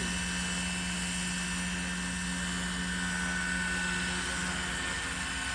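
Roban Bell 412 scale RC helicopter running, a steady hum and whine of its motor and rotors, with a higher tone coming in about halfway through.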